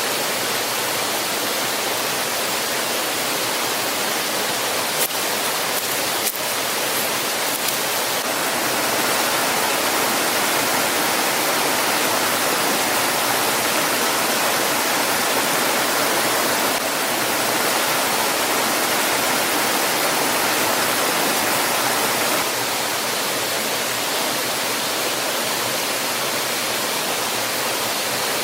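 Steady rushing water of a waterfall, an even hiss with no letup, with two faint clicks about five and six seconds in.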